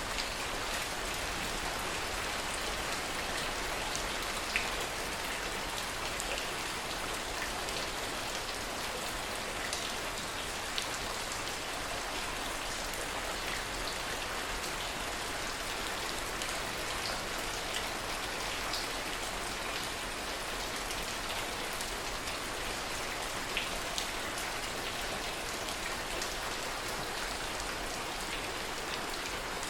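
Steady rain falling, an even hiss with scattered distinct drop ticks.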